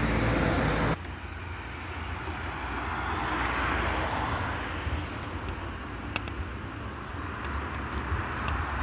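Road traffic passing, rising and falling in slow swells, over a low steady rumble of wind on the microphone, with a couple of faint clicks near the end.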